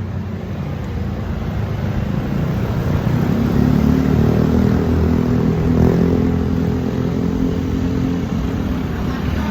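Street traffic heard while cycling, with a steady low rumble on the microphone. A motor vehicle engine passes close by, loudest around the middle and fading near the end.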